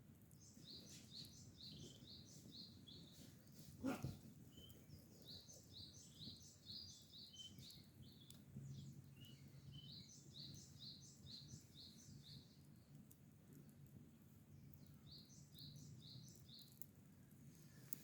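A small bird singing, repeating a short high chirp several times a second in four runs, with pauses between. One sharp knock about four seconds in.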